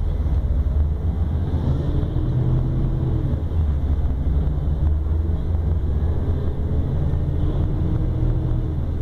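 Diesel engine of a Volvo B12R double-decker coach running, a steady deep drone. A fainter pitched whine comes in about two seconds in and again near the end.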